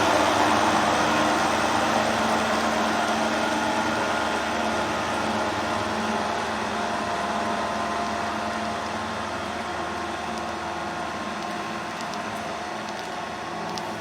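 Kubota M6040 SU tractor's diesel engine running steadily under load, gradually getting quieter.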